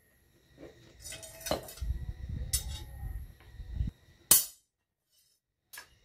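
Light metal clinks and knocks from steel tools and workpiece being handled, with a sharp click about four seconds in and another near the end.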